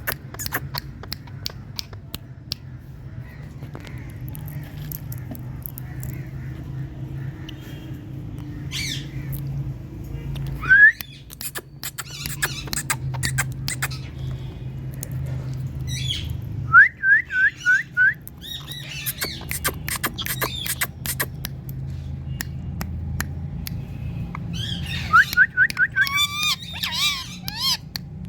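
Indian ringneck parakeets calling: short rising squawks, one alone and then quick runs of about five, with scattered sharp clicks and a steady low hum underneath.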